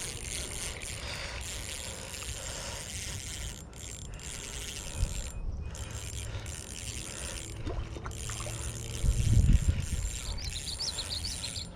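Spinning reel being cranked as a small catfish is reeled in, with a louder low thump about nine seconds in.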